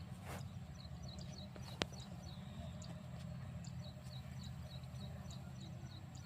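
Small birds chirping in quick, repeated short notes over a steady low rumble, with one sharp click a little under two seconds in.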